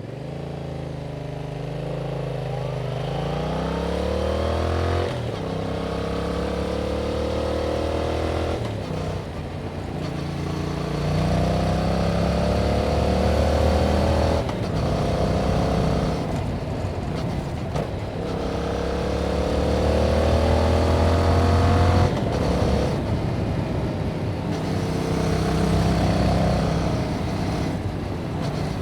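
2021 Yamaha MT-07's 689 cc parallel-twin engine through its stock exhaust, accelerating through the gears. The pitch climbs in each gear and drops sharply at each of several upshifts.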